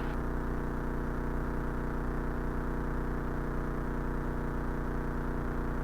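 Cessna 172's piston engine idling steadily during taxi, an even drone with no change in pitch.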